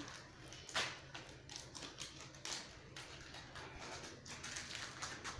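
Irregular light clicks, taps and rustles, some louder than others, over a faint steady low hum: handling noises.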